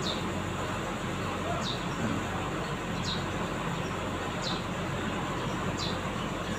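Steady background noise with a low hum. Over it a bird repeats a short, high, downward-sliding call about every one and a half seconds.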